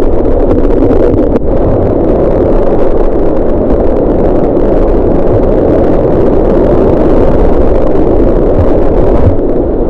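Loud, steady rushing of white water, an even muffled roar with no break.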